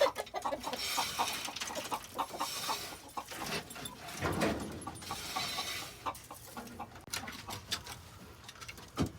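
Chickens clucking in short bursts, mixed with rustling and scraping noises, and a single sharp knock near the end.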